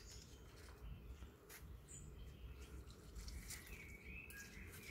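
Near silence with faint bird chirps, a few short high calls coming near the end.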